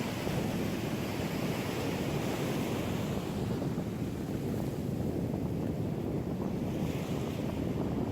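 Ocean surf washing on the shore, its hiss swelling twice, under a steady rumble of wind buffeting the microphone.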